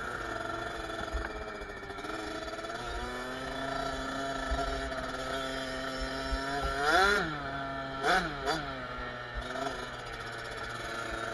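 Kawasaki KX65's small two-stroke single-cylinder engine running steadily, with a quick rev about seven seconds in and two shorter blips of the throttle just after.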